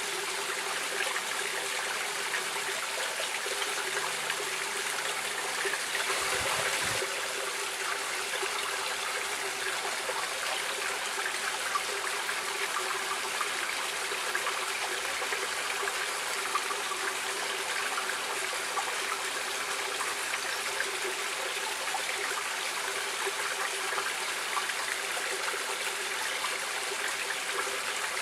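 Stream water running and splashing steadily, with a brief louder swell and a couple of low thuds about six seconds in.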